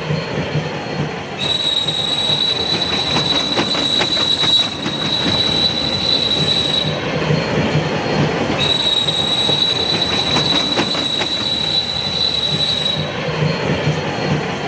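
Kalka–Shimla narrow-gauge toy train running, with a high steady wheel squeal that comes and goes in stretches of a few seconds. A quick run of rail clicks comes a few seconds in, over a low rumble of the train.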